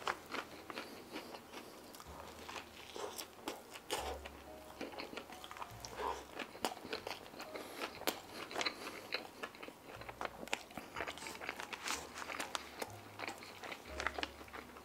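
A person chewing mouthfuls of truffle fries: many small, irregular crunches.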